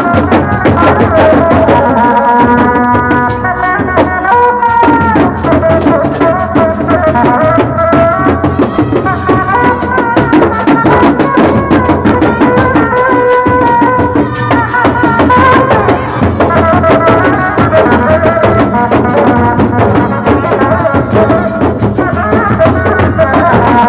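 Loud traditional folk music: fast hand drumming with a wavering melody line over it, playing without a break.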